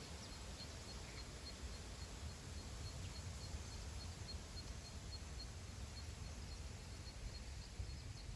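Wind blowing over open grassland, with a low rumble of wind buffeting the microphone. A faint high chirp repeats about three times a second.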